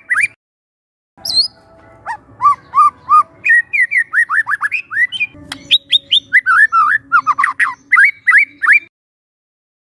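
Young wild white-rumped shama singing: a fast run of short whistled notes, each sweeping up or down in pitch, starting about a second in and breaking off abruptly near the end.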